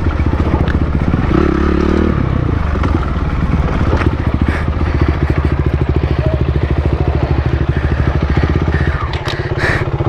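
Dirt bike engine running under way, a fast even exhaust pulse, with a few knocks and rattles over it. The engine note changes and eases about nine seconds in.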